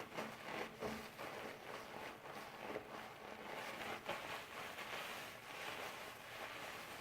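Wet doll hair being washed by hand: a steady run of soft rubbing and squishing with many small irregular clicks.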